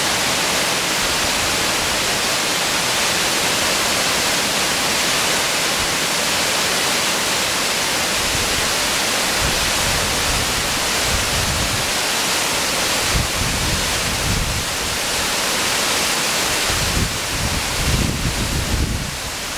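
Waterfall on a mountain stream, rushing water making a steady, loud hiss. From about halfway through, irregular low rumbles come and go beneath it.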